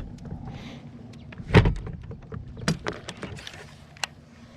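A few scattered knocks and clicks of gear being handled aboard a boat, with one louder thump about one and a half seconds in.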